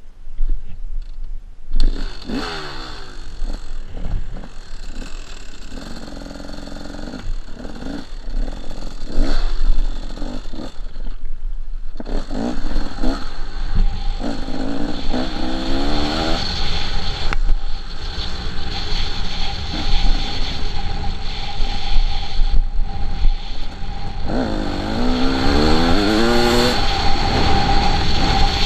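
KTM 300 two-stroke dirt bike engine revving hard and backing off, its pitch climbing in repeated rising sweeps, with knocks and rattles from the bike over rough ground. The engine comes in about two seconds in.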